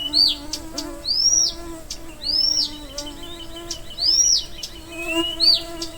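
A flying insect buzzing with a steady low hum that swells and fades as it passes. Over it, a bird repeats a short, arched whistled call about once a second.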